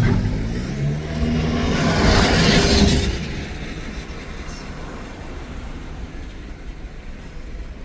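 Road traffic heard from a moving vehicle: a loud engine hum with a rush of hiss for about the first three seconds, as of a large vehicle passing close, then steady, quieter road noise.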